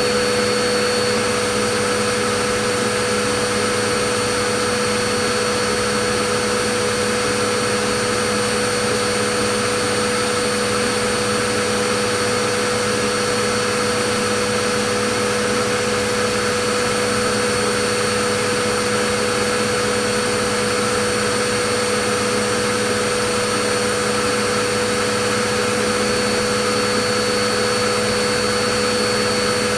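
Vacuum cleaner running steadily: a constant rush of air with a steady motor hum and whine, no change in pitch or loudness.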